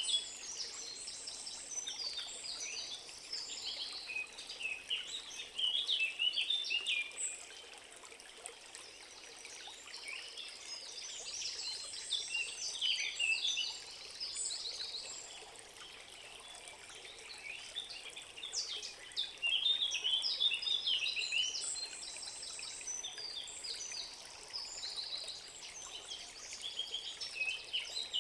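Several songbirds singing in a forest, phrases of rapid chirps and warbles coming in waves with brief lulls, over a faint steady background hiss.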